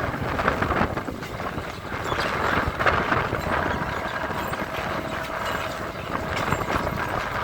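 EMU local train running, heard from on board: a steady rumble of wheels on rail with many short clacks and rattles, mixed with wind noise.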